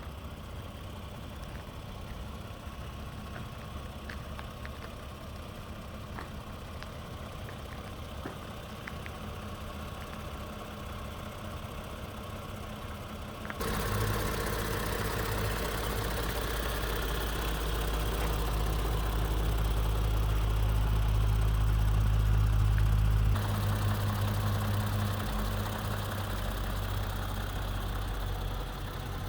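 2020 Toyota Avalon TRD's 3.5-litre V6 idling at the exhaust, a steady low hum. About halfway through it turns suddenly louder and deeper, swells a little, then drops back down a few seconds before the end.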